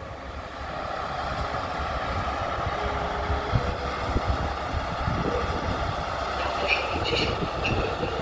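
Electric multiple-unit train running through the station: a steady rumble and hiss that grows louder over the first couple of seconds as a train approaches, with a few short high squeaks near the end.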